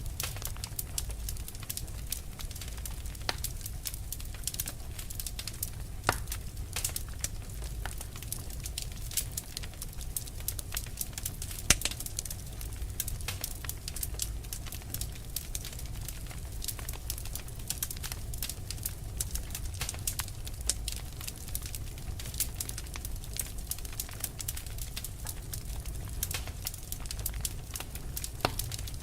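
Wood fire burning: dense, irregular crackles and small pops over a low steady rumble, with one sharper snap about twelve seconds in.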